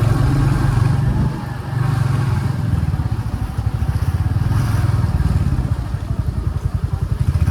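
Motorcycle engine running as the bike pulls away, a steady low pulsing throb with a brief drop in level about a second and a half in.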